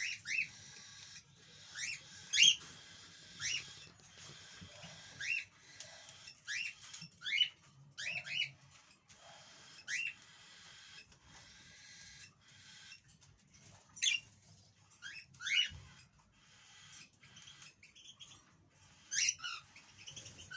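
European goldfinches calling: a string of short, rising call notes at irregular intervals.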